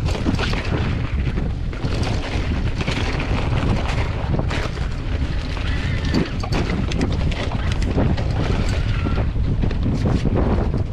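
Strong wind buffeting the microphone with a heavy, steady rumble, broken by frequent short clicks and knocks.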